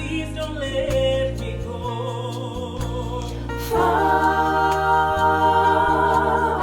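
Gospel worship song: several singers holding long notes over a bass guitar playing sustained notes. A little before the 4-second mark the singing swells louder and fuller, with voices in harmony.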